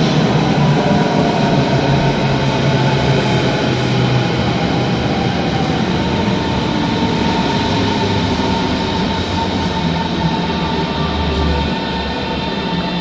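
S-Bahn electric train running into the station: steady rail and wheel noise with the electric motors' whine sliding slowly down in pitch as it slows, easing off a little near the end.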